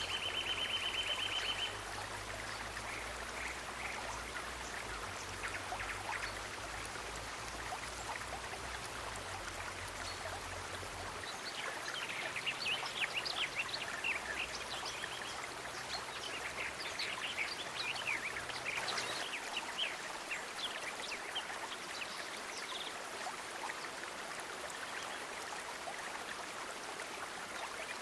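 A stream running steadily, with a rapid high trill in the first second and a half and a flurry of short, high chirping calls from about 12 to 20 seconds in. A low hum sits under the water for the first eleven seconds or so.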